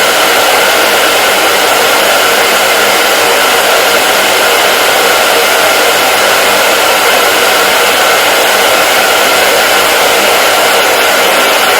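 Hair dryer running steadily: a constant loud rush of air, with a faint steady whine from its motor.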